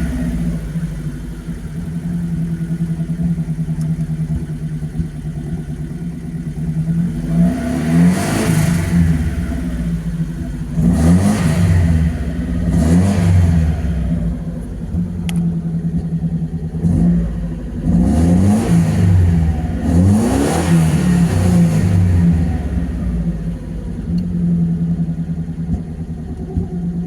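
Alfa Romeo Alfasud 1.5 ti's flat-four engine idling, revved up several times and falling back to idle between revs.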